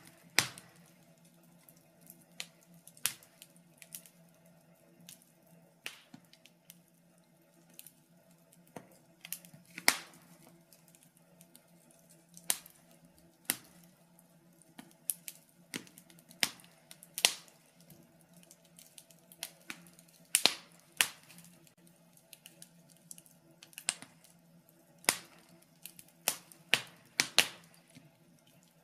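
Wood fire in a fireplace crackling: irregular sharp pops and snaps, sometimes singly and sometimes several in quick succession.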